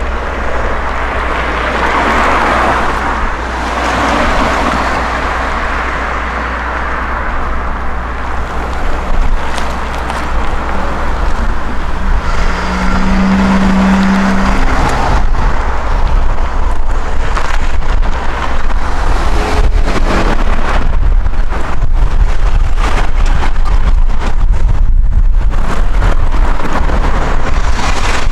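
Long Island Rail Road passenger train led by a DM30AC dual-mode locomotive passing close by, a loud steady rumble with wind noise on the microphone. A short, steady low tone sounds about halfway through, and sharp irregular clicks run through the second half as the cars go by.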